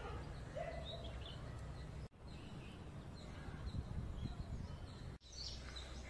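Faint, scattered bird chirps over a low steady rumble of background noise. The sound drops out briefly twice.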